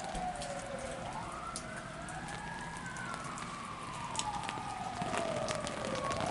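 An emergency-vehicle siren wailing, its pitch rising and falling slowly in two overlapping tones, under the steady hiss and patter of heavy rain.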